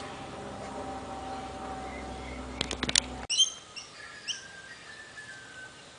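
Background hum with a few sharp clicks, then after an abrupt cut two short, high parrot chirps about a second apart, followed by a faint falling whistle.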